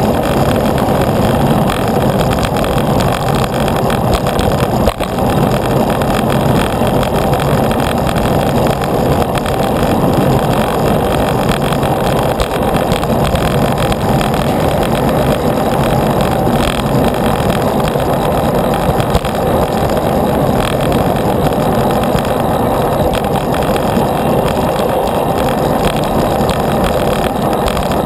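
Steady rushing noise of a bicycle ride: wind over the microphone mixed with road noise, with one brief dip about five seconds in.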